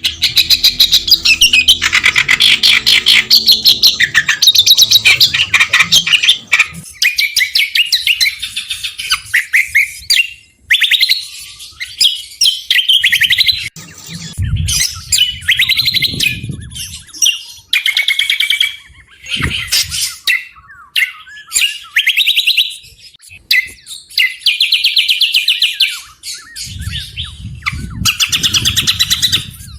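A small songbird singing harsh, rapid-fire chattering phrases of fast repeated notes and trills, with short breaks between phrases. A low rumble comes in twice, once about halfway through and again near the end.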